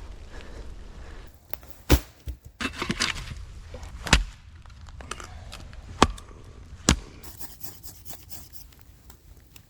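Chopping with a blade: four sharp, spaced strikes with some scraping and rustling between them.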